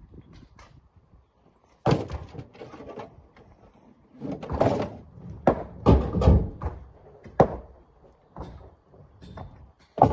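Rocks thrown by hand into a steel dump truck bed, landing in a series of heavy thuds and clanks at uneven intervals, several in quick succession in the middle.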